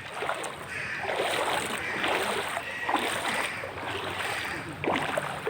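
Legs wading through standing floodwater, the water sloshing and splashing in repeated surges about once a second with each stride.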